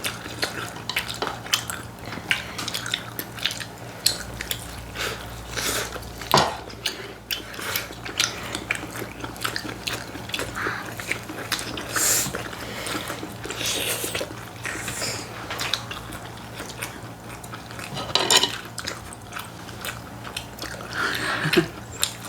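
Close-up eating sounds: people biting and chewing food, with scattered clicks of cutlery against dishes.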